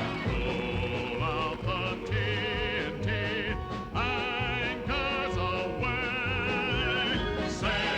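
A group of singers holding sustained notes with vibrato over a band accompaniment with a steady beat.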